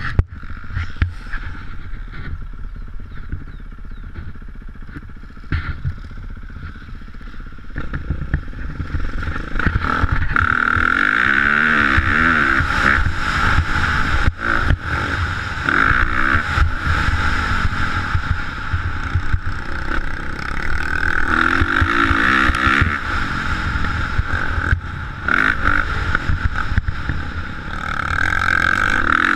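Motocross dirt bike engine running and revving up and down repeatedly, growing louder about eight to ten seconds in.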